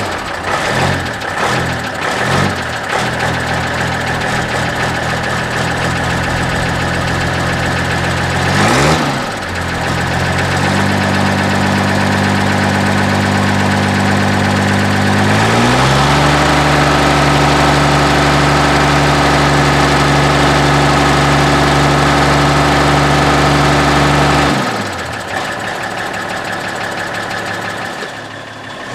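Mercedes 814 truck's diesel engine just after starting from a long standstill, running at uneven revs at first, then settling. About 16 seconds in the revs climb to a higher steady speed and hold for about eight seconds before dropping back down.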